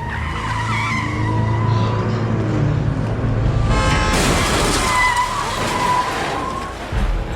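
Car tyres squealing in a skid, then about four seconds in a loud crash of the vehicles, its noise lasting a few seconds before dropping away near the end.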